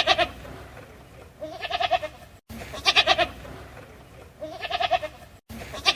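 Goat bleating repeatedly, about five wavering calls roughly one and a half seconds apart. The same short recording loops, with a brief break in the sound at each repeat.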